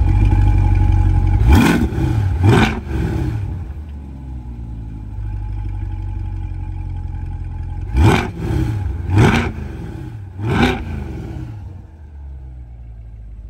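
2023 C8 Corvette's 6.2-litre LT2 V8 on its stock exhaust: a steady high idle, then two quick throttle blips about a second apart. After a few seconds of lower idle come three more revs, each rising sharply and dropping back to idle.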